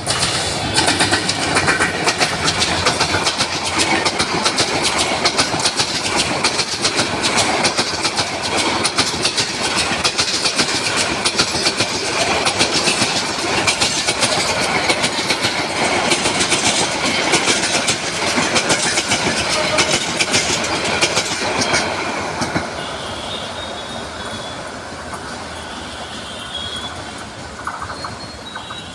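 Bangladesh Railway diesel-hauled passenger train passing close by, its wheels clattering loudly over the rails for about twenty seconds. The clatter then fades as the carriages pull away, with a thin wheel squeal near the end.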